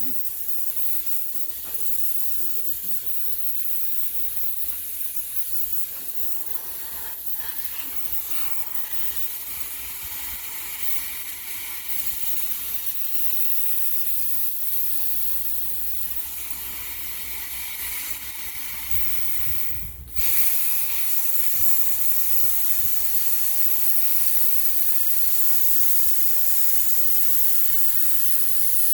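Steady loud hiss that cuts out briefly about twenty seconds in, then comes back louder.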